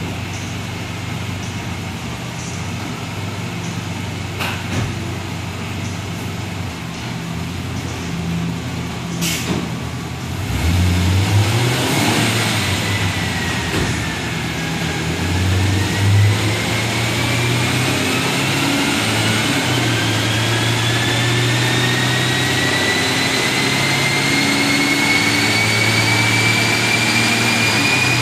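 Jaguar XKR's supercharged V8 idling, with a few sharp clicks, on a chassis dyno; about ten seconds in it gets louder as the car starts driving the rollers, and a whine climbs steadily in pitch as the speed builds.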